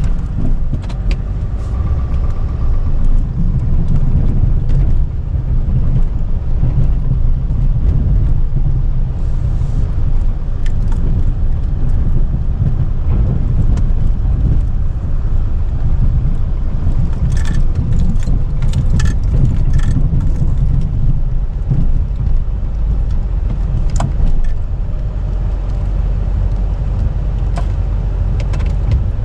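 Chevrolet K3500 dually's Duramax turbo-diesel V8 pickup running under way, a steady low rumble. A few light rattling clinks come in over it about two-thirds of the way through.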